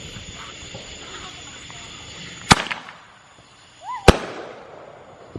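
Two loud bangs from an 8-shot aerial firework, about a second and a half apart, each with a ringing tail. A short rising whistle comes just before the second bang.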